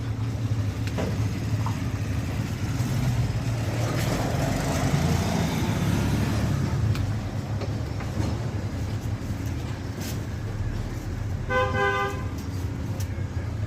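Steady low rumble of motor traffic, with a vehicle horn tooting a quick run of short beeps about eleven and a half seconds in.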